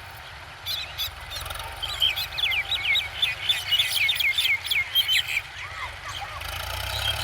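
A bird chirping in a quick run of short, downward-sliding notes, from about two seconds in to about five and a half, over a low steady rumble.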